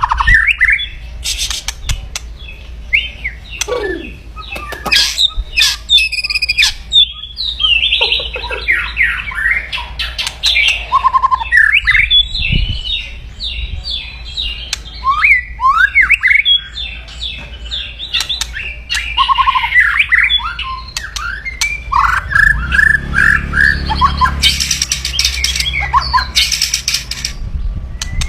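White-rumped shama (murai batu) giving loud, aggressive 'kretekan' calls: a dense run of harsh rattling and clicking notes mixed with short whistled phrases. Near the end a low rumble and a hissy rustling burst join the calls.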